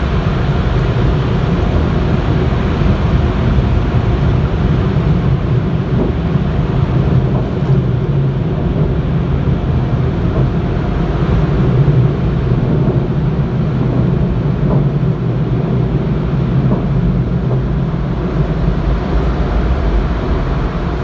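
Automatic drive-thru car wash machinery heard from inside the car: a loud, steady rumbling rush.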